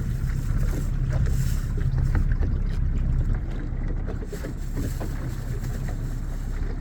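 Fishing boat's motor running steadily, with wind on the microphone and small knocks in the boat.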